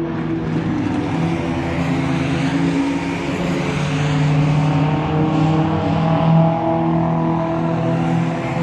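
Engines of several race cars running at high revs as they pass, their pitches overlapping and shifting. Loudest about six seconds in.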